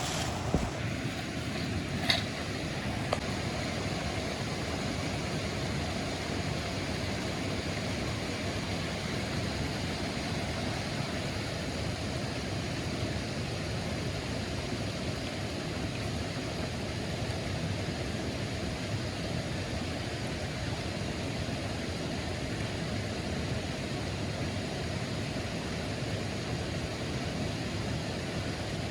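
Steady rushing water, an even noise that holds at one level, with a few faint clicks in the first few seconds.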